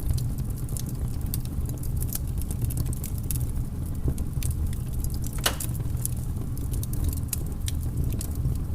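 Wood fire crackling in a fireplace: irregular snaps and pops over a steady low rumble, with one louder pop about five and a half seconds in.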